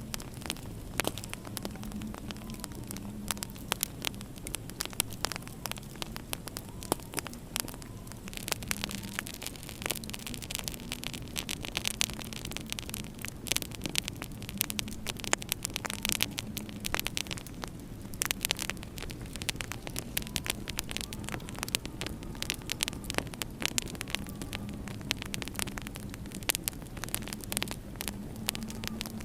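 Wood fire in a fireplace crackling, with many sharp pops and snaps over a steady low hum.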